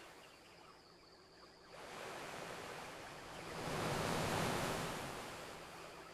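Ocean wave washing onto the shore: a soft hiss of surf that rises about two seconds in, swells, and fades away.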